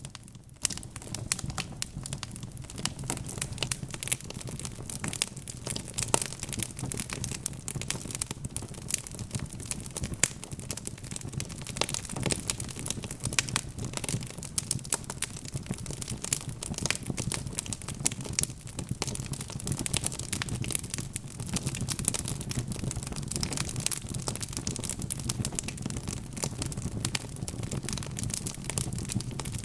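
Wood fire burning in a fireplace: logs crackling and popping in quick, irregular snaps over a steady low rush of the flames.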